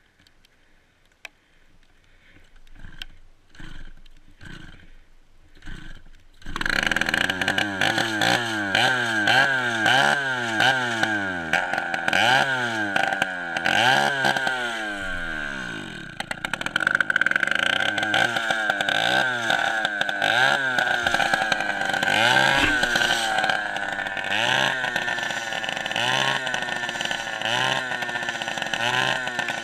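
Dirt bike engine, quiet at first with a few short pulses. About six seconds in it catches and runs loudly, revved over and over with its pitch rising and falling roughly once a second.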